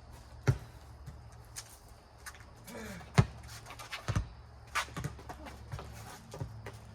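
Rubber four square ball smacking the pavement and being slapped, a handful of sharp knocks at uneven intervals, loudest about half a second in and about three seconds in. A steady low hum runs underneath.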